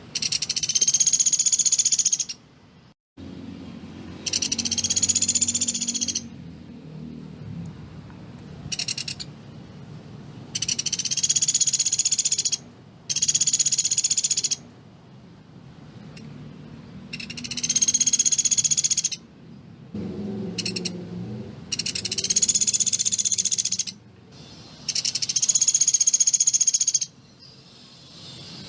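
Pelatuk beras (Sunda pygmy woodpecker) giving its rapid, high rattling trill, about nine times with short pauses between, a few of them very brief.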